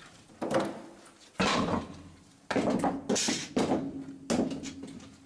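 Repeated metallic clanks and scrapes in a steam locomotive cab, about six sharp knocks in quick succession, each dying away quickly, typical of a fireman shovelling coal into the firebox.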